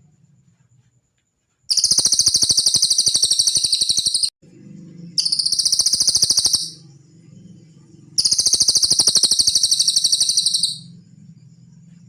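Cililin bird song played as a masteran recording: three long, fast, high-pitched trills of rapidly repeated notes, each lasting one to three seconds, with short gaps between them.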